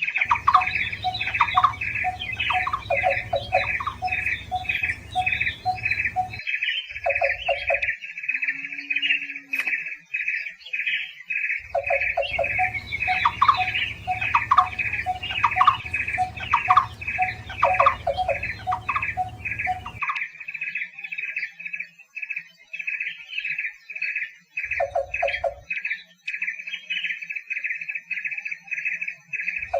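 Barbets calling: a fast, even run of short repeated notes, several a second, with lower notes from another bird coming in and going out at intervals.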